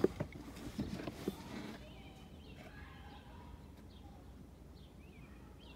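A few faint knocks in the first second and a half, then a quiet outdoor background with faint, scattered bird chirps.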